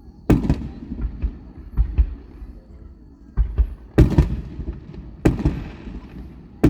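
Fireworks display: a series of booms from aerial shells bursting. There are four sharp reports with quieter low thumps between them, and a faint hissing crackle after the third report.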